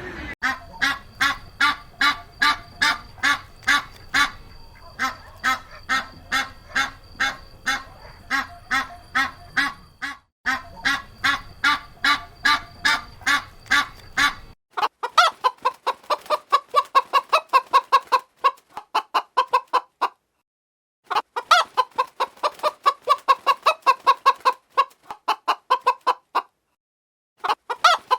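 Chicken clucking: rapid, evenly spaced clucks, about three or four a second. About halfway in, a background hum drops out and the clucking goes on, with two short breaks near the end.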